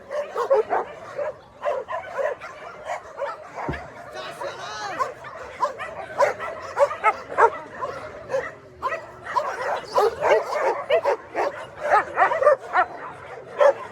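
A pack of shelter dogs barking and yipping together in a continuous, overlapping chorus of short barks, with a brief lull about nine seconds in.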